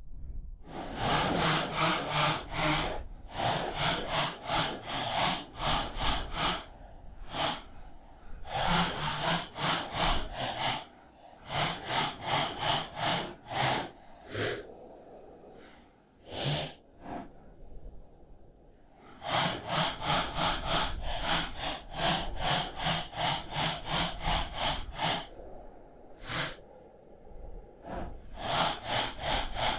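Storm-downed tree limbs being sawn by hand: quick, rhythmic rasping strokes in runs of a few seconds, broken by short pauses, with no engine running.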